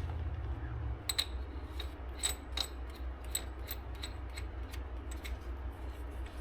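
Light metallic clicks and taps, irregular, two or three a second, as small metal parts and tools are handled, over a steady low hum.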